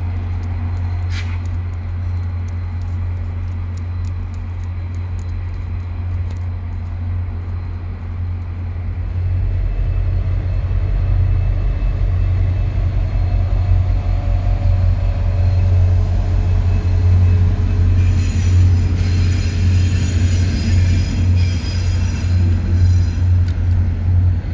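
VIA Rail passenger train running past with a steady low rumble, which grows louder about a third of the way in as a train comes up and crosses a railway bridge overhead. A cluster of high steady tones joins in over the last several seconds.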